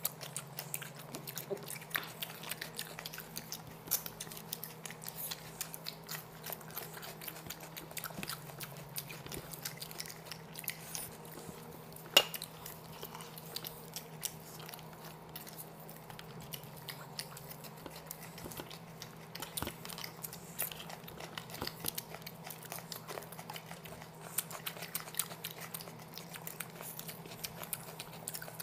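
People chewing and biting chicken biryani and tangdi kabab (chicken drumsticks) eaten by hand: wet chewing with many small clicks and smacks, and one sharper click about twelve seconds in. A steady low hum sits underneath.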